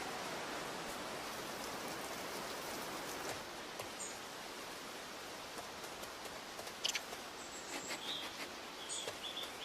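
Soft outdoor nature ambience: a steady hiss with a few faint, short high chirps and clicks in the last few seconds.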